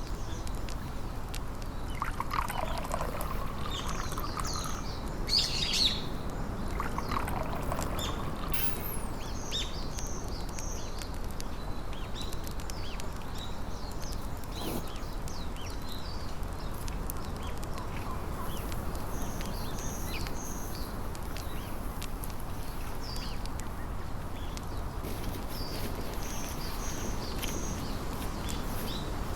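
Wild birds calling outdoors. Short high chirps come in quick groups of three, repeated every few seconds, and there are a couple of lower, drawn-out falling calls early on. A steady low background noise runs underneath.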